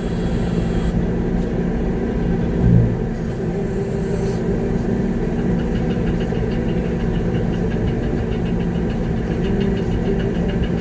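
Concrete mixer truck's engine running steadily, heard from inside the cab, with a brief louder surge about three seconds in. A fast, light ticking runs for a few seconds in the second half.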